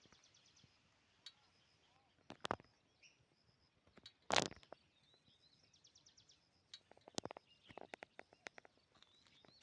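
Small birds calling in short, rapid trills of high notes, over scattered clicks and knocks. The loudest is a thump about four seconds in, and a quick run of clicks follows from about seven seconds in.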